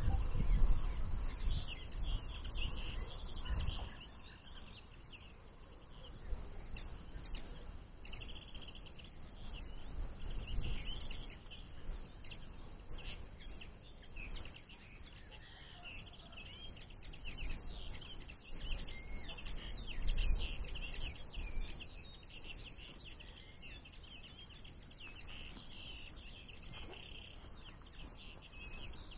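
Small songbirds twittering: a dense, continuous run of quick high chirps. A low rumble is heard in the first few seconds and briefly again about two-thirds of the way through.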